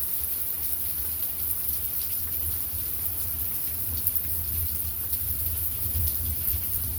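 Heavy rain falling steadily, a continuous hiss with faint pattering drops, over a low rumble.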